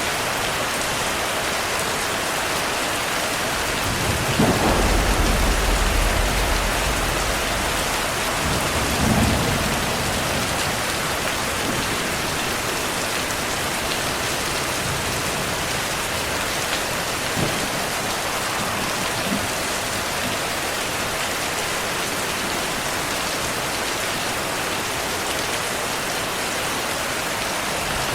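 Heavy, steady rain with thunder: a low roll of thunder builds about four seconds in and lasts several seconds, followed by a second, shorter rumble around nine seconds.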